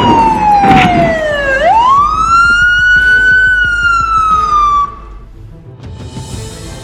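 Police car siren wailing loudly. Its pitch slides slowly down, sweeps quickly back up and holds, then cuts off about five seconds in, with a couple of short knocks near the start.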